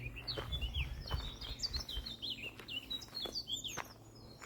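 Several wild birds chirping and singing, a dense run of quick high notes and short slurred whistles. Some soft low thuds sound in the first couple of seconds.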